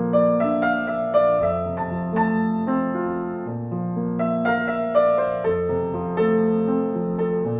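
Slow, calm piano music: sustained chords with a gently moving bass line and melody notes struck about every half second.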